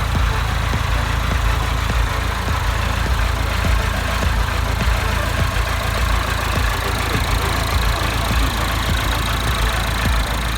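Perkins 85 hp diesel engine of a Landini Advantage 85 GE tractor running at a steady speed, a low, even rumble.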